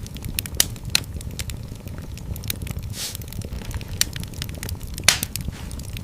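Wood fire burning in a fireplace, a steady low rumble of flames under irregular crackles, with a few louder pops, the loudest about five seconds in.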